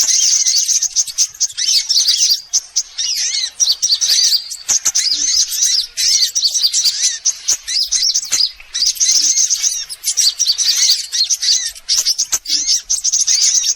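Sunbirds chirping and twittering fast and high-pitched: a dense, near-continuous run of short chirps, as played to lure sunbirds, with brief pauses about a third and about two-thirds of the way through.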